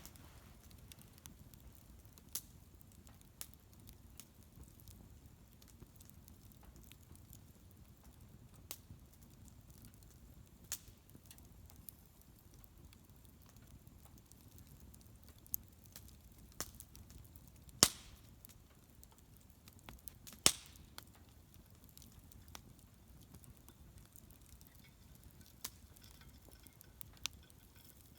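Wood bonfire crackling: a quiet low hiss with scattered sharp pops and snaps, two of them much louder, a couple of seconds apart past the middle.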